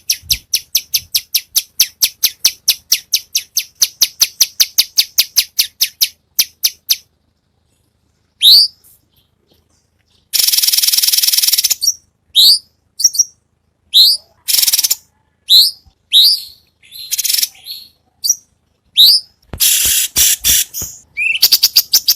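Songbird song played as a tutoring track. It opens with a fast, even run of sharp high chip notes, about six a second, for the first seven seconds. After a short pause come a buzzy trill and a string of short falling whistles and rapid trills.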